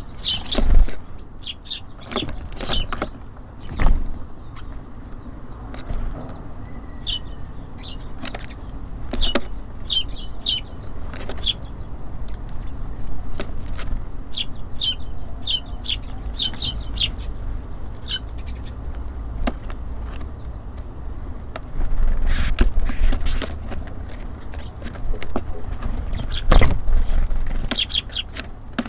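Small songbirds chirping at a bird feeder: short high chirps in quick runs, with scattered sharp taps, over a steady low rumble.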